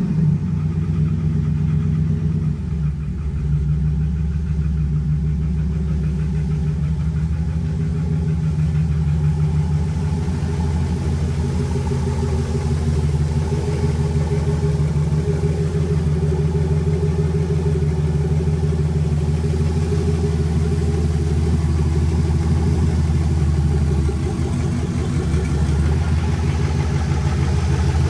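Turbocharged Camaro engine idling steadily after a cold start, with a slight dip in its note twice.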